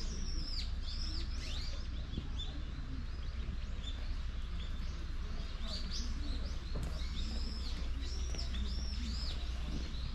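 Small birds chirping: short, high, hooked calls in quick clusters, one near the start and another about two thirds of the way through, over a steady low background rumble.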